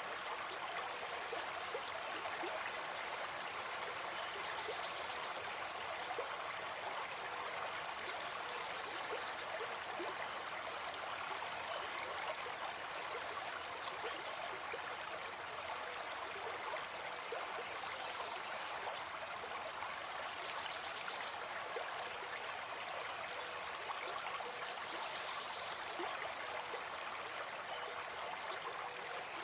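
Gentle forest stream flowing steadily over rocks, with a few faint bird calls.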